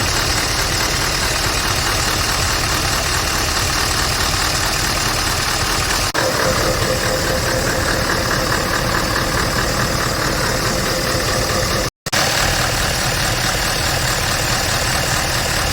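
Scania R650's 16-litre V8 diesel engine idling steadily, with a brief break in the sound about twelve seconds in.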